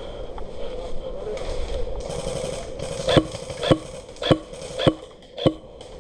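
Airsoft gun firing five single shots, about one every 0.6 s, in the second half, over steady background noise.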